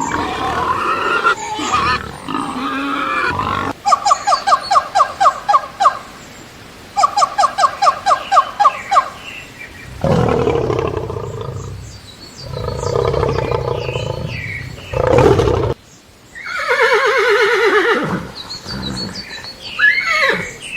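A run of different animal calls, one after another: two bouts of fast, even pulsed calls at about four a second, then several long, deep, rough roar-like calls, and a falling pulsed call near the end.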